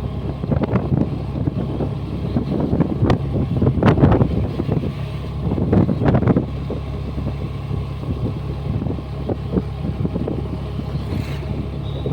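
Honda Dio 125 scooter's single-cylinder engine running at riding speed under heavy wind buffeting on the microphone, with irregular gusty thumps.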